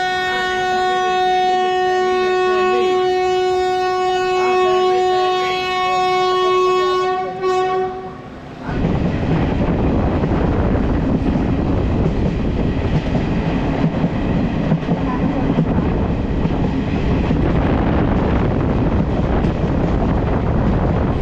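Locomotive horn sounding one long, steady blast of about eight seconds. It then gives way suddenly to the rumble and rail clatter of the train running.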